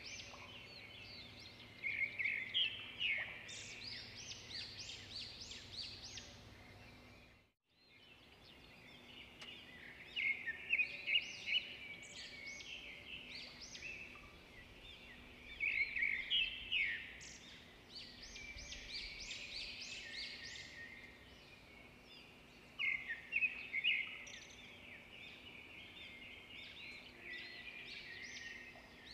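Birds calling in bouts of rapid, high notes a few seconds long, several times over a faint steady background; the sound cuts out for a moment about seven seconds in.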